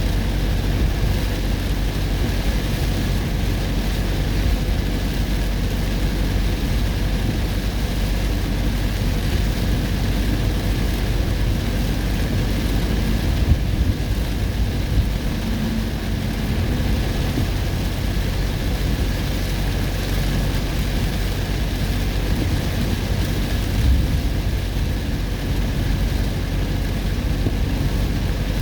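Steady low rumble and noise of a vehicle driving through a heavy storm. Two brief thumps come about halfway through and again later.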